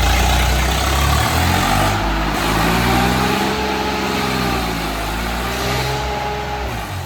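Swaraj tractor's diesel engine running loud, revving up over a couple of seconds and then easing back down.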